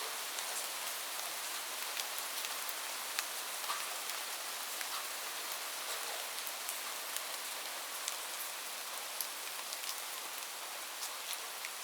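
Steady rain falling on a roof, a dense hiss with many individual drops ticking sharply and irregularly on top.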